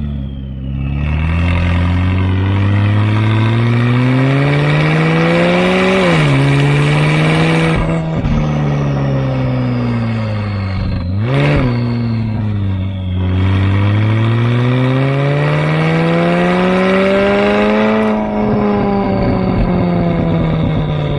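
McLaren 570S twin-turbo V8 through a full Fi Exhaust system with catless downpipes, pulling hard and easing off under way. The engine note climbs for several seconds and drops sharply at a gear change about six seconds in. It falls away, gives a quick rev blip with a sharp crack around eleven seconds, then climbs steadily again for about five seconds before falling off.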